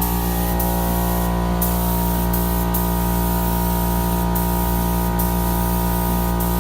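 Spray gun hissing as primer is sprayed, the spray stopping briefly several times, over a steady low hum.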